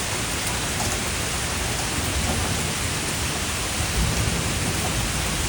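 Steady rain falling on surfaces during a passing thunderstorm.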